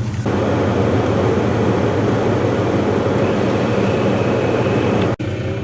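Car engine running with a steady low hum, under a loud rushing noise that cuts off suddenly near the end.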